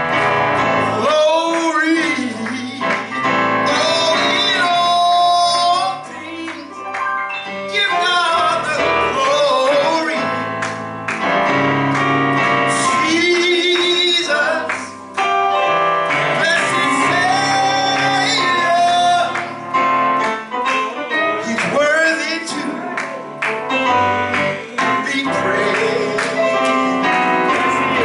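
Gospel-style music with male and female voices singing over instrumental accompaniment.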